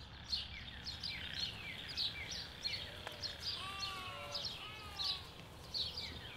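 Wild birds calling: many short, quick chirps that fall in pitch, repeated throughout, with a few lower arched notes in the middle.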